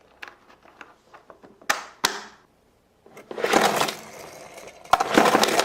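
Hard plastic toy car case and diecast toy cars being handled: light clicks, then two sharp clacks about two seconds in, followed by two bursts of plastic-and-metal clattering and scraping.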